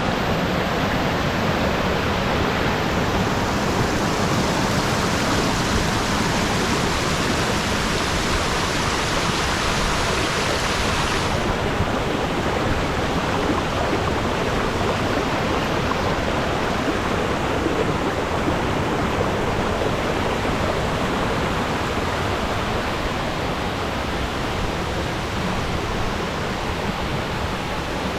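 Waterfall: the steady rush of falling water, loud and close, with a slight dulling of the hiss about eleven seconds in.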